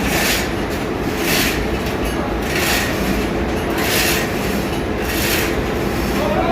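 Loud, steady engine-room machinery noise, with a hiss that swells and fades about every second and a quarter.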